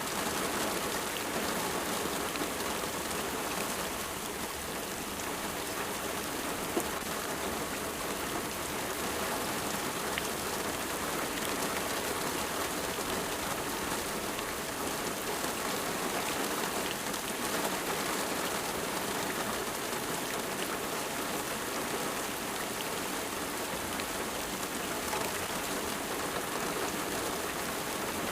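Steady rain falling and pattering on surfaces, with scattered individual drop ticks.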